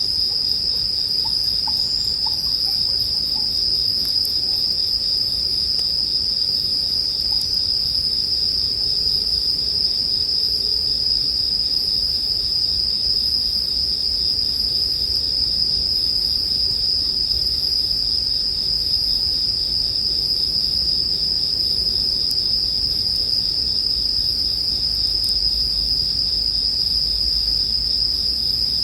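A continuous chorus of bell crickets (suzumushi) chirping in a steady, high-pitched ring that does not let up.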